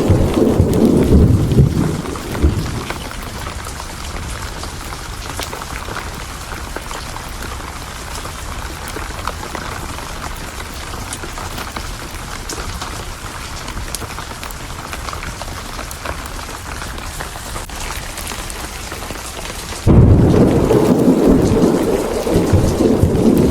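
Steady heavy rain with rolling thunder: a loud rumble at the start dies away after a couple of seconds, and another loud thunderclap breaks in suddenly near the end.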